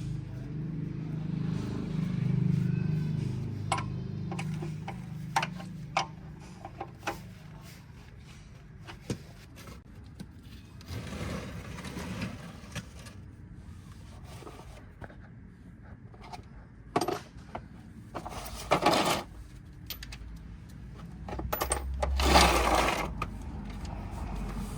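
Workshop sounds: metal tools and parts clinking, knocking and scraping, with a low hum in the first few seconds and three short bursts of rushing noise.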